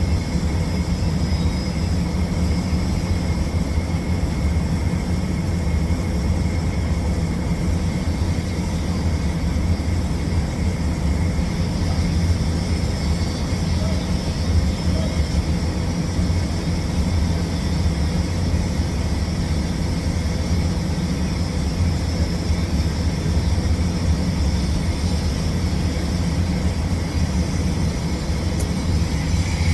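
Steady low machine drone with a faint even hiss underneath, unchanging throughout, the background of a TIG root pass being welded on pipe.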